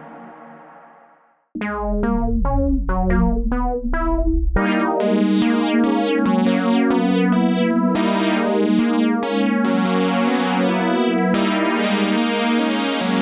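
Sequential Fourm analogue polysynth: a ringing tail fades out, then after a short gap plucky notes with quick downward sweeps start. About four and a half seconds in, a steady bass and a fast run of bright plucked notes join them.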